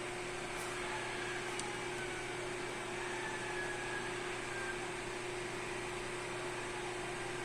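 Steady mechanical hum and whir of a ventilation fan running, with a constant low tone underneath.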